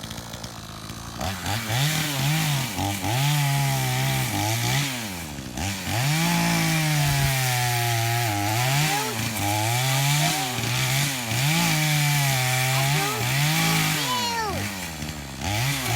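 Two-stroke gas chainsaw idling, then revved up about a second in. Its engine pitch then rises and falls over and over as the throttle is worked and the saw is loaded in the cut.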